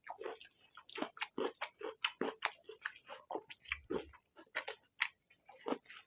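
People eating with their hands: wet mouth smacks and chewing of rice and egg curry, in quick irregular clicks several times a second.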